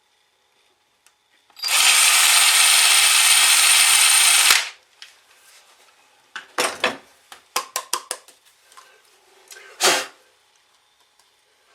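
Electric drill running at speed for about three seconds as it bores one of the fixing holes, with a thin high whine over the noise; then a string of sharp clicks and knocks as the work is handled.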